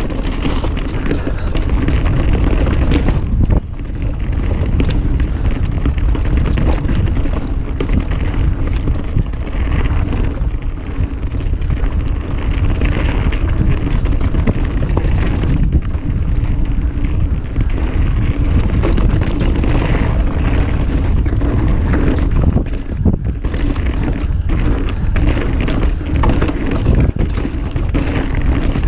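Mountain bike descending a dirt trail at speed: steady tyre and wind noise on the action camera's microphone, broken by constant rattles and knocks from the bike over bumps.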